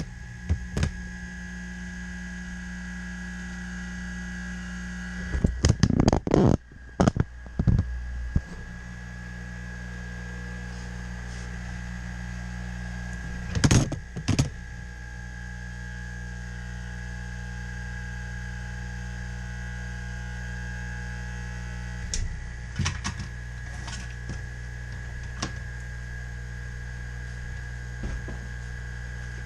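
Steady electrical mains hum with a thin high whine from bench equipment, broken by short clusters of sharp clicks and knocks from tools being handled during desoldering of a circuit board, the loudest about six to eight seconds in and again around fourteen seconds.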